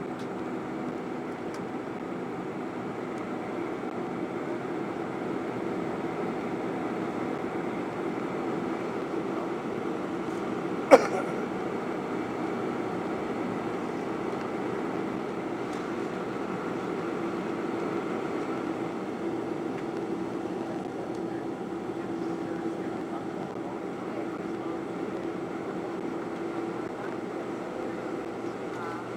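Boeing 747-400 jet engines, a steady even rush with a low hum and a higher held tone. One sharp click about eleven seconds in.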